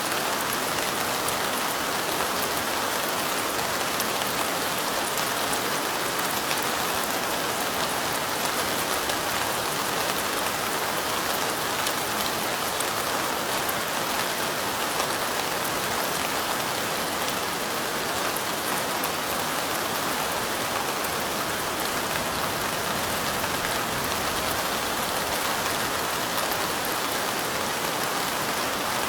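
Steady light rain falling, an even hiss sprinkled with many small drop ticks, with no change in intensity.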